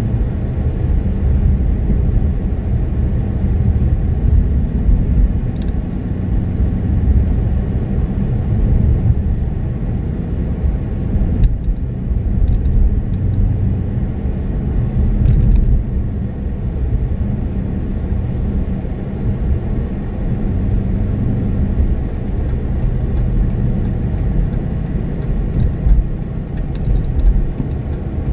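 Dodge Challenger R/T's V8 engine and road noise heard from inside the cabin while cruising, a steady low rumble.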